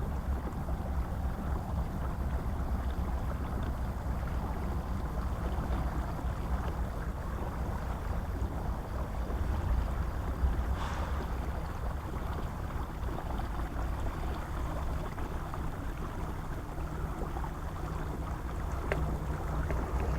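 Wind rumbling on the microphone over a steady wash of water from a kayak on a river, with one brief sharper sound about eleven seconds in.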